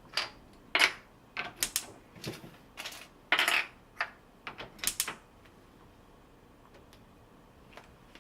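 A quick, irregular run of sharp clicks and knocks of hard objects being handled, stopping about five seconds in.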